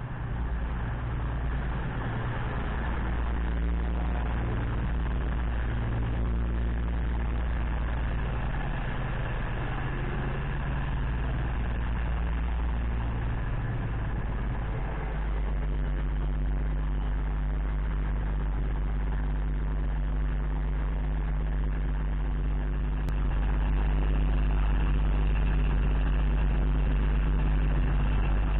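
Trains at a station platform: a Class 222 Meridian diesel multiple unit running in close by, its engines churning, followed by a Thameslink electric unit drawing in and standing at the platform with a steady low hum that gets louder about two-thirds of the way in.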